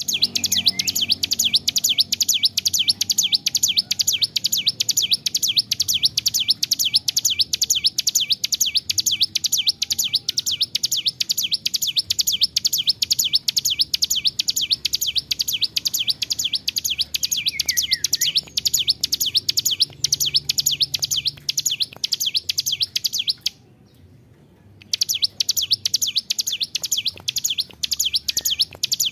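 Ciblek gunung, a prinia, singing a long, unbroken run of rapid, high, repeated notes. The run pauses once briefly about three-quarters of the way through, then resumes.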